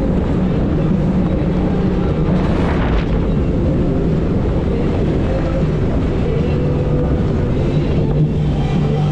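A 90 hp Evinrude outboard motor running steadily at speed on an inflatable tour boat, mixed with the rush of wind and water. A brief burst of hiss comes about three seconds in.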